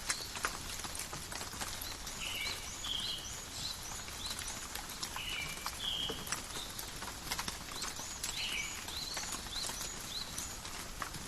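Steady rain falling in a forest, with many distinct drops ticking and pattering on leaves and surfaces. A bird calls repeatedly over it in short, bright chirps.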